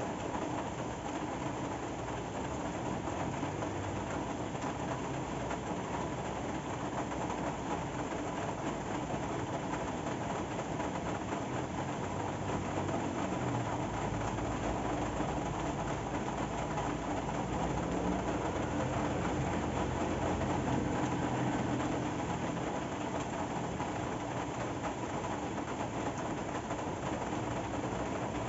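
Steady rain falling, an even hiss throughout. A low rumble swells from about halfway through and fades again near the end.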